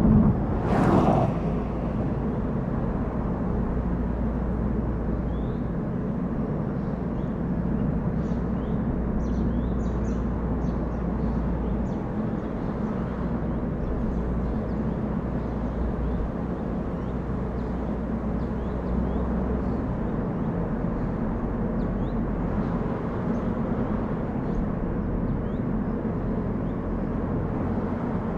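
Steady engine and tyre noise of a car driving, with a brief louder rush about a second in and a few faint high chirps.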